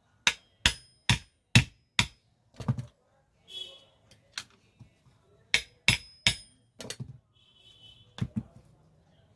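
Hammer blows on metal: a quick run of five sharp strikes about two a second, a double strike, then after a pause a few more strikes and a last double strike near the end, each with a short metallic ring.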